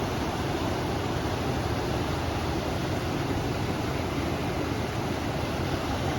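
River water rushing steadily, mixed with wind, as an even, unbroken noise heaviest in the low range.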